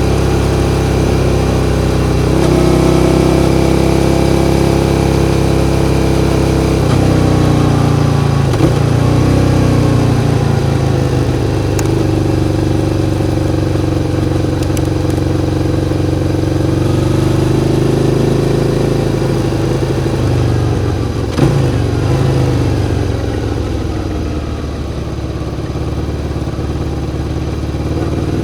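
Suzuki SV650's 645 cc 90-degree V-twin engine running, its pitch rising and falling as the revs change. About two-thirds of the way through there is a short click, then the revs drop and climb again near the end.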